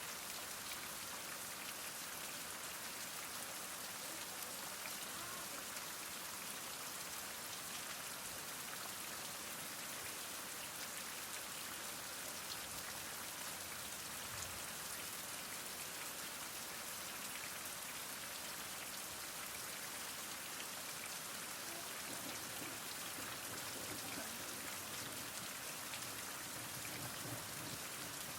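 Heavy rain falling steadily, a dense hiss of drops with fine individual patters on surfaces, a little more low patter near the end.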